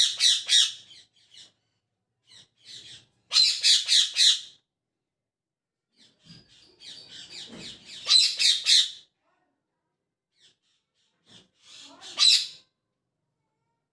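Pet parrot squawking in four short bouts of rapid, harsh calls, with pauses of a few seconds between them.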